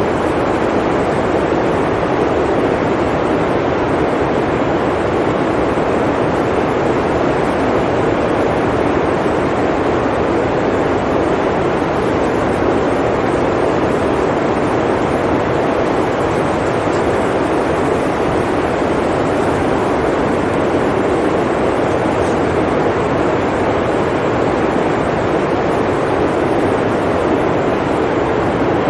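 Blizzard wind blowing steadily: an even, unbroken rush of noise, heaviest in the low-middle range, without gusts or pauses.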